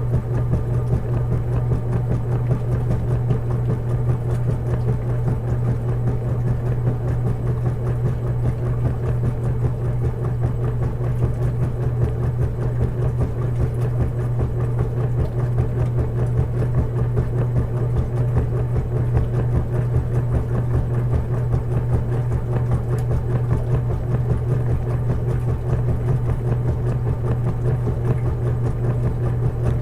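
Washing machine running with a steady low hum that holds unchanged throughout.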